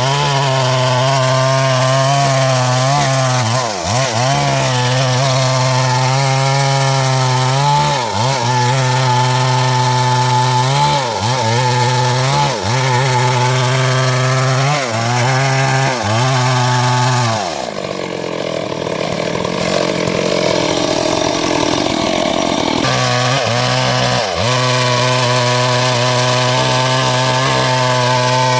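Stihl MS 382 two-stroke chainsaw running at high throttle while cutting wood, its engine note dipping briefly every few seconds as it loads up in the cut. For about five seconds past the middle, the steady engine note gives way to a rougher, noisier sound before it returns.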